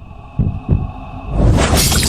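Edited comedy sound effects: a couple of low thumps, then a whoosh that builds up toward the end, over faint music.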